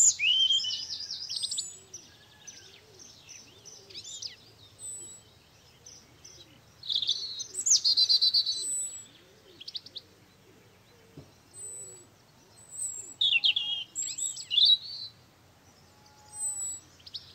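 Songbirds chirping and trilling in bursts of a second or two, with quieter gaps between, and a faint low call repeating underneath for much of the time.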